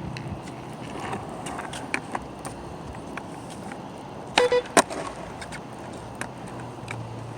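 Skateboard wheels rolling on pavement, with scattered clicks and a quick cluster of sharp board clacks about four and a half seconds in.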